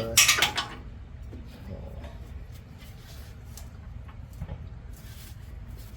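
A short clatter right at the start, then faint scattered clicks of a spark plug socket being fitted, over a low steady hum.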